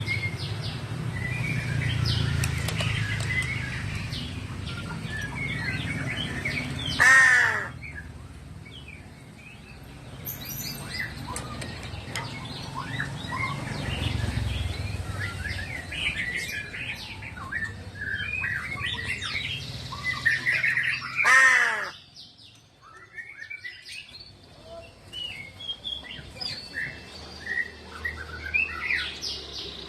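Crow cawing, two loud harsh calls about fourteen seconds apart, with smaller birds chirping throughout over a low rumble.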